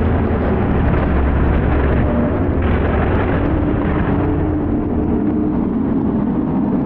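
Off-road competition truck's engine running hard, a loud, steady low rumble heard through a muffled, bass-heavy recording.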